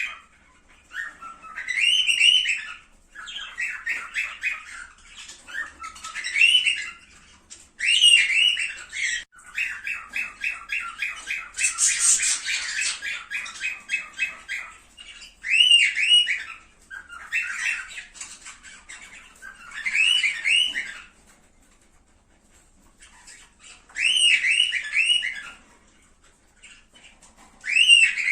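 Cockatiels calling: bouts of rapid chattering chirps alternate with short whistled phrases that rise and fall in pitch, with brief pauses between bouts.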